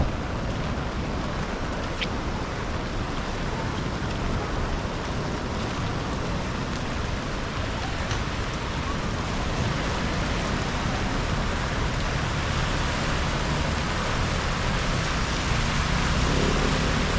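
Steady rain falling, a constant even hiss with a low rumble underneath and a single faint tick about two seconds in.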